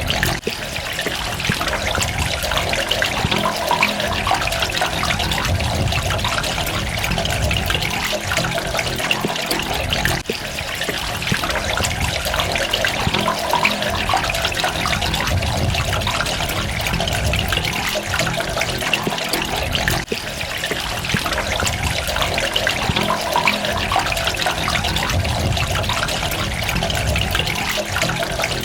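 Water running and splashing continuously, a dense steady rush with trickling detail, briefly dipping in level about ten and twenty seconds in.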